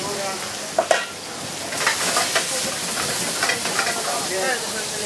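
Sliced vegetables sizzling and frying in a hot wok as they are stirred and tossed. Two sharp knocks come about a second in.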